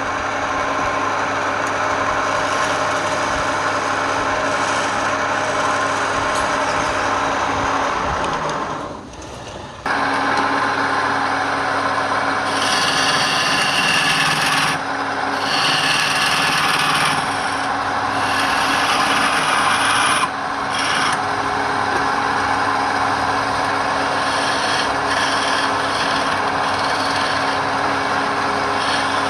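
Wood lathe running with a steady hum while a turning tool scrapes and cuts the spinning wood. The sound drops briefly about a third of the way in, then the cutting comes back in several harsher stretches.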